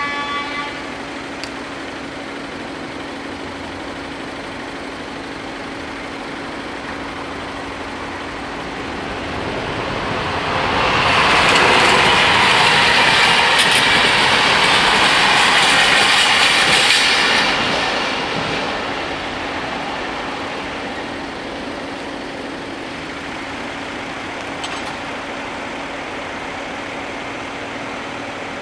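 Locomotive-hauled passenger train passing over a level crossing: the rumble and clatter of its coaches build for a few seconds, stay loudest for about six seconds, then fade away. A train horn cuts off right at the start, and a steady low tone runs underneath throughout.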